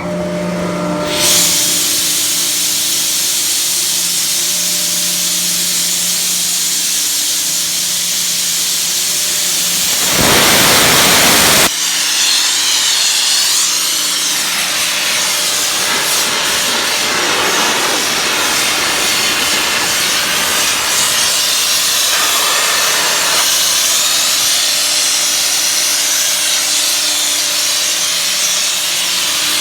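A Sullair 25-horsepower rotary screw air compressor running just after start-up: a steady, loud rush of air over a low hum, settling in about a second in. Around ten seconds in, a louder hiss lasts about a second and a half.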